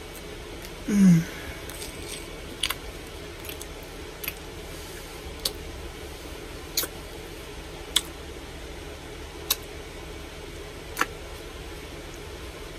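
Eating noises: a short falling "mm" hum about a second in, then sharp wet mouth clicks and smacks from chewing a chicken sandwich, about one every second and a half, over a steady background hiss.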